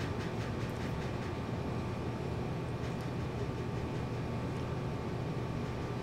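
Steady low background hum with a faint high tone, and soft chewing and mouth clicks from eating pizza in the first second and again around three seconds in.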